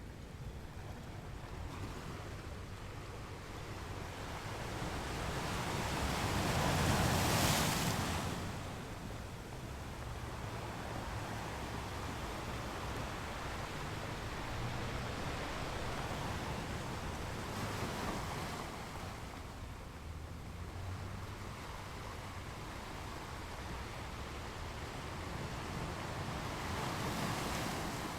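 Small ocean waves breaking and washing on a beach: a steady surf wash, with one louder wave building to a peak about seven seconds in and two weaker ones later.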